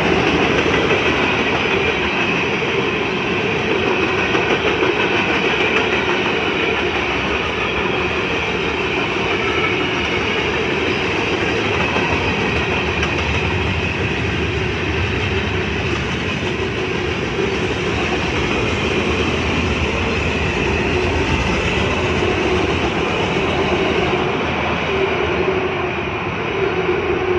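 Manifest freight train rolling past, with a steady, continuous noise of steel wheels on rail.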